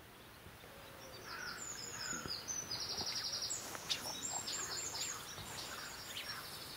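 Small birds singing: quick, high chirping notes and a rapid trill, over a faint outdoor hiss with a few soft clicks.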